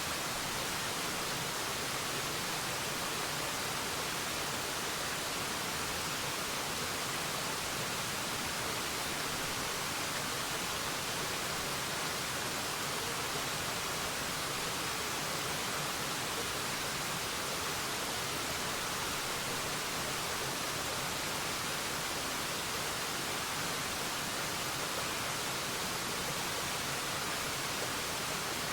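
Waterfall: a steady, even hiss of falling water, strongest in the high range, with no change and no other sound over it.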